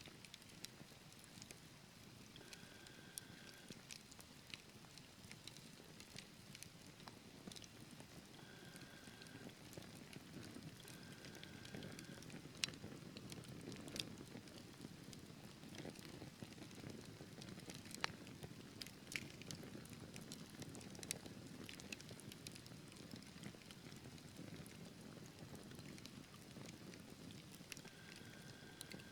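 Wood fire burning in a fireplace: irregular sharp crackles and pops over a low, steady rush of flames.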